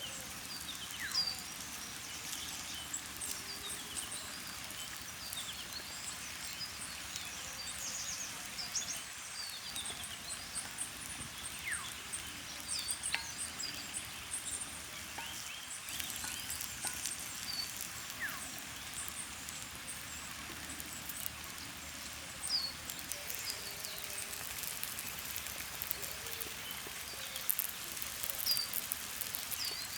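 Birds chirping and calling in many short, scattered notes over a steady outdoor background hiss, with faint light ticks now and then.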